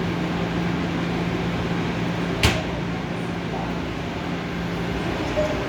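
Steady hum of a Seoul Line 3 subway train at the station platform, with one sharp clack about two and a half seconds in.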